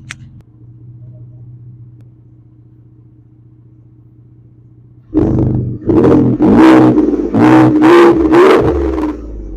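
Ford F-150's 3.5 EcoBoost twin-turbo V6 idling low through a Carven TR Series exhaust with a Vibrant resonator, then blipped in several quick revs from about five seconds in.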